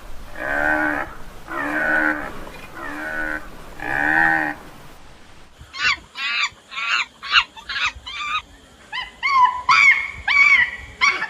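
Farm animal calls: a livestock animal cries four times, about a second apart, each a drawn-out call that rises and falls. Then, after a cut, a flock of waterfowl calls rapidly, several short honking calls a second.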